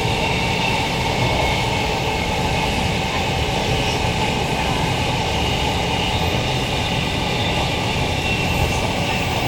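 Queensland Rail electric multiple unit with ASEA propulsion equipment running at steady speed: a continuous low rumble of the train in motion with steady high tones over it, no rise or fall in pitch.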